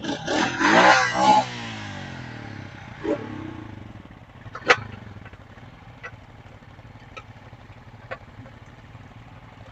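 ATV engine revved hard for about a second and a half, its pitch sliding, then settling back to a lower steady running. A single sharp knock comes near the middle, followed by a few light clicks.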